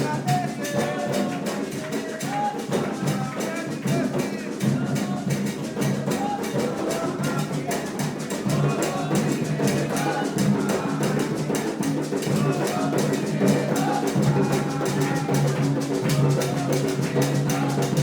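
Music of fast, steady hand-drum percussion with voices singing over it.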